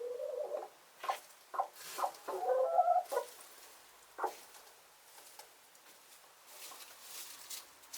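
Chickens clucking: a few short pitched calls in the first three seconds, mixed with several sharp clicks, then only faint sounds for the rest.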